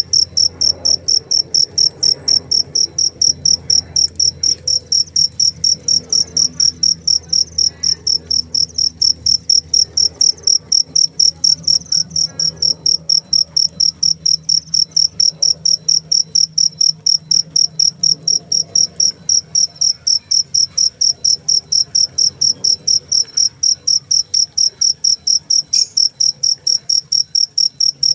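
A cricket chirping loudly and steadily, one high-pitched chirp about three times a second without a break.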